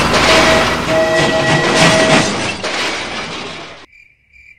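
Train running on rails, a loud rattling noise with a few steady tones through it, which cuts off abruptly a little before the end, leaving a faint high tone.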